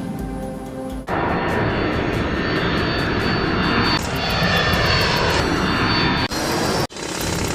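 Loud jet aircraft engine noise, a dense rushing roar that starts abruptly about a second in and breaks off sharply twice near the end, with dramatic music underneath.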